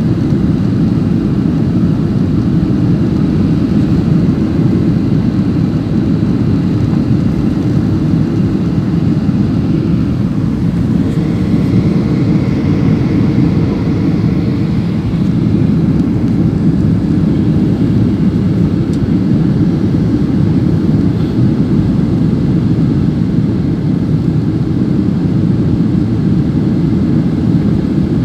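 Airliner cabin noise heard from inside the passenger cabin: a steady, loud low rumble of engines and airflow. A faint extra hum joins in for a few seconds around the middle.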